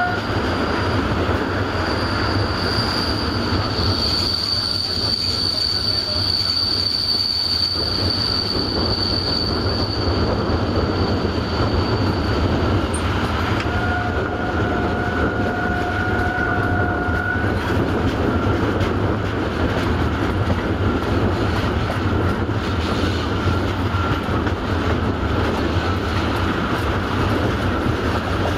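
Passenger train running at speed behind a 060-DA diesel-electric locomotive, heard from an open coach window: steady rumble and rolling of wheels on rail. Thin high wheel squeal rings out on the curve for several seconds in the first half, and a lower squealing tone sounds briefly past the middle.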